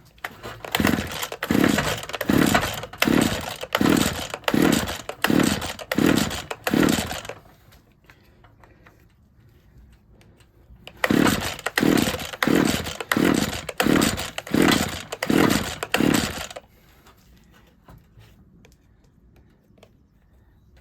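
Recoil starter of a small two-stroke petrol hedge trimmer being pulled again and again, each pull spinning the engine over without it catching. Two runs of quick pulls, about eight or nine each, with a pause of a few seconds between.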